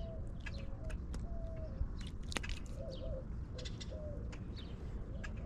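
Short, low bird calls repeated about once a second, with a few light clicks between them.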